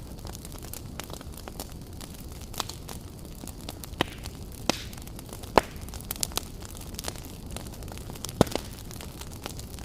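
Wood campfire burning: a steady low rumble of flames with irregular crackles and sharp pops, the loudest snaps about five and a half and eight and a half seconds in.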